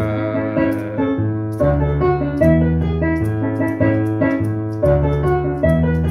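Electric keyboard playing sustained chords over a stepping bass line, with a light, evenly spaced ticking percussion beat on top.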